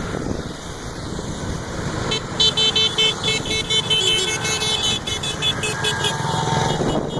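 Motorcycle and car engines running past, with horns tooting in quick repeated bursts from about two seconds in.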